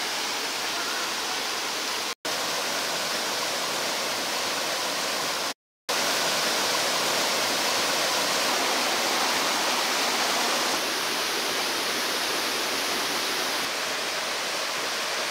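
Waterfall rushing: a steady, dense hiss of falling water. It is broken by two brief dead silences, one about two seconds in and a longer one just before six seconds.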